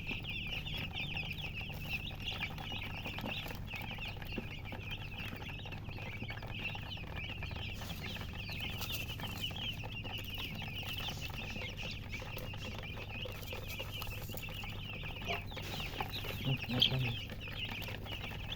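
A brood of newly hatched chicks peeping nonstop, many short high chirps overlapping, over a steady low hum. A brief louder sound stands out near the end.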